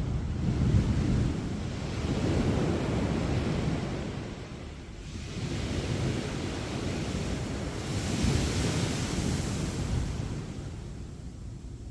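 Sea waves breaking on a beach and washing up the sand, rising and falling in several surges. The last surge has a bright hiss about eight seconds in, then eases off.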